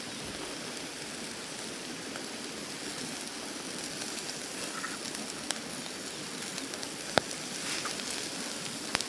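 Food sizzling and frying in a hot pan, a steady hiss with a few sharp pops and crackles.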